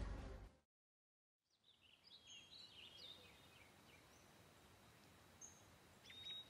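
After a fade-out and a second of silence, faint birds chirping over a quiet outdoor hiss, with a short run of chirps near the end.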